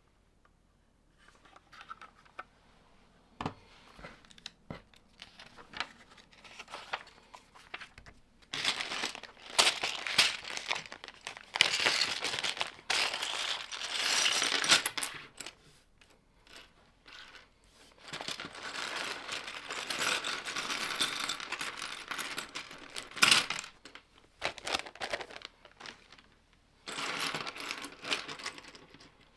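Loose plastic Lego pieces clattering and rattling as they are handled and sorted, in several long spells. There are a few single clicks early on.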